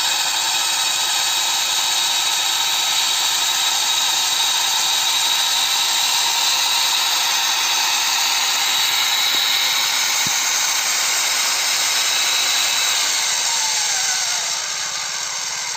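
Kubota DC-93 combine harvester running under load, a steady high mechanical whine. Near the end it slows, its pitch falling and the sound growing a little quieter.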